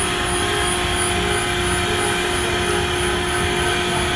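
Steady, loud engine drone with a constant low hum, even throughout.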